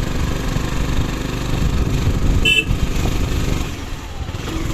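Steady low rumble of a motor vehicle running, with one short horn beep about halfway through.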